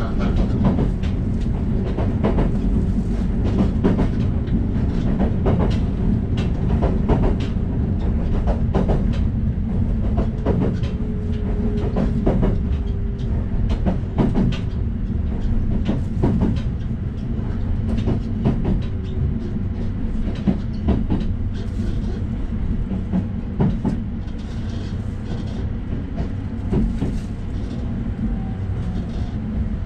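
Diesel railcar running at speed, heard from inside the carriage: a steady low rumble of engine and wheels on the rails, broken by irregular knocks as the wheels cross rail joints.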